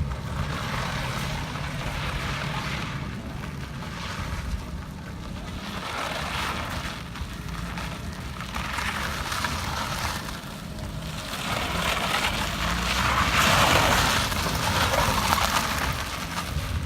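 Car engine running under a rushing hiss of wind on the microphone, the hiss swelling loudest about three-quarters of the way through.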